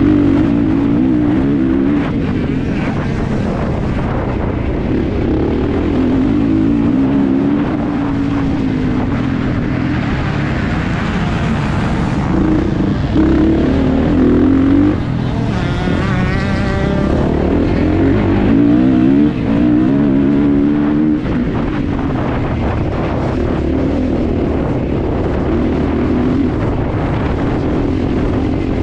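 Kawasaki KX450's 450cc four-stroke single-cylinder engine revving hard and falling back again and again as the bike is raced around a motocross track.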